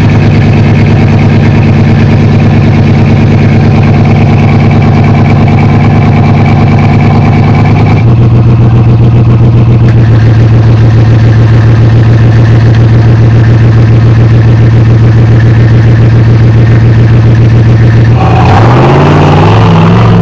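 Off-road truck engine running hard at steady high revs under load. Its pitch steps to a new steady note about eight seconds in, then swings up and down with throttle changes near the end.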